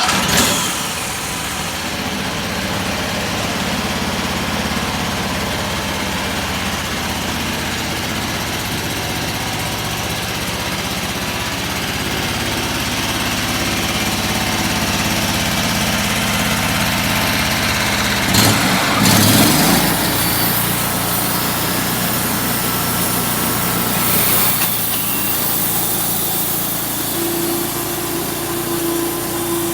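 Engine-driven homemade band sawmill running steadily, its blade turned through a double V-belt drive while sawing a walnut log. The sound comes in abruptly and shifts briefly about 19 seconds in.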